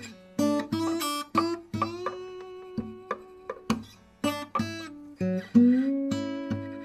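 Music: an acoustic guitar playing picked notes and chords, each struck sharply and left to ring out.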